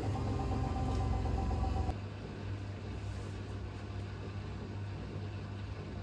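Hoover H-WASH 500 washing machine near the end of its cycle: its motor whines steadily, then cuts off abruptly about two seconds in, leaving a lower, steady hum.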